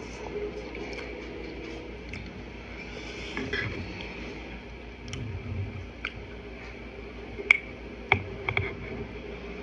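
Person chewing a mouthful of noodles close to the microphone: soft wet mouth noises and several short sharp clicks, the loudest about three quarters of the way through.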